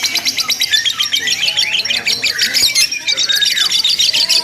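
Several lovebirds chattering in long unbroken 'ngekek' trills: rapid shrill pulses, roughly ten a second, overlapping with one another.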